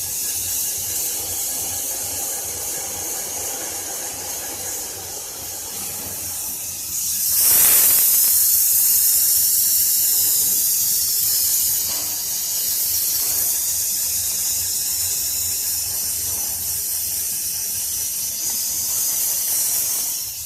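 CO2 laser cutting machine running with a steady high hiss of air blowing at the cutting heads, over a faint low hum. The hiss gets louder about seven and a half seconds in.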